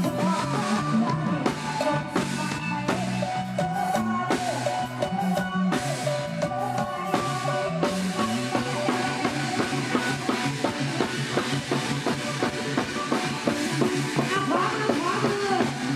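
Live band playing an instrumental passage of an Isan pop song, with drum kit, bass and keyboard or guitar melody over a steady beat.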